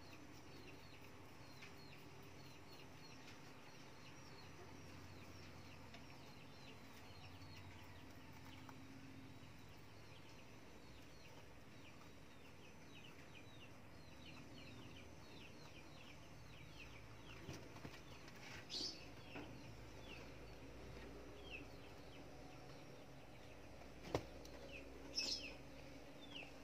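Faint, continuous chirping of small birds: short high chirps a few a second, each falling in pitch, with a couple of louder calls later on and a single sharp click near the end.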